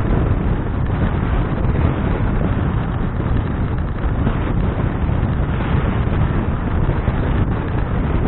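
Wind buffeting the microphone of a bicycle-mounted action camera while riding, a steady low rush with no breaks.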